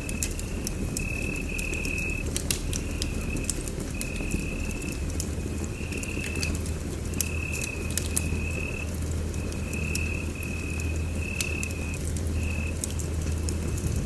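Wood fire crackling in a fireplace: a low steady rumble of flames with sharp snaps and pops scattered through it. Over it, a high chirping trill comes in short runs about once a second.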